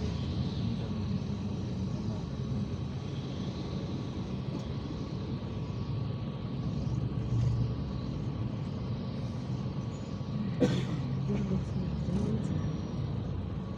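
IVECO Crossway 13M PRO city bus under way, heard from inside: a steady engine drone with road rumble, and a single sharp knock about three-quarters of the way through.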